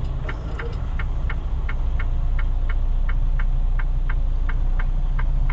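Semi truck's diesel engine running low inside the cab while reversing, over a steady mechanical ticking of about three ticks a second.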